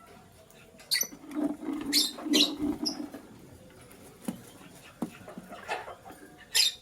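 Lovebirds giving short, sharp chirps: a cluster of four in the first three seconds, a softer one at about 5.7 s, and one more near the end.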